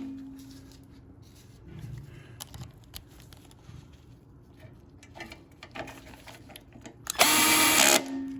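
Cordless drill/driver spinning in a 10 mm bolt on the engine's muffler. It runs in one short spurt of under a second near the end, and its motor hum fades out after it. Faint clicks and small tool handling sounds come before it.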